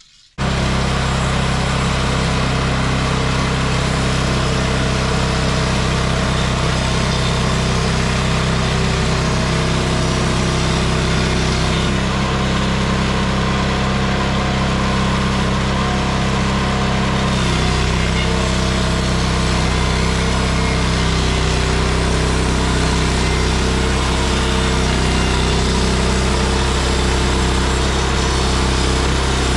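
Frontier OS23 bandsaw mill's small gas engine running steadily at high speed, with a slight change in its note about two-thirds of the way through.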